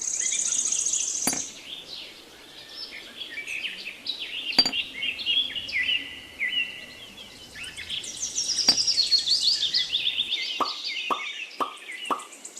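Birds chirping and singing, many quick overlapping calls. Near the end comes a run of short taps, about two a second.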